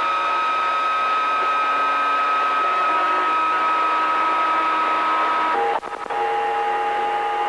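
CB radio receiver putting out several steady whistling tones over static. About five and a half seconds in the tones cut out briefly and come back as a different set of steady tones.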